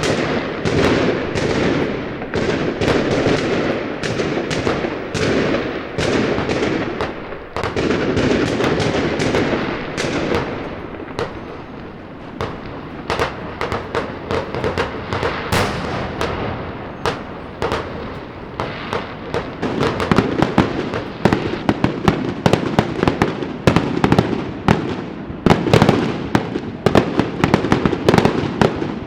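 Fireworks and firecrackers going off in dense, continuous volleys of bangs and crackling. The volleys thin out briefly near the middle, then a fast run of sharp cracks fills the last third.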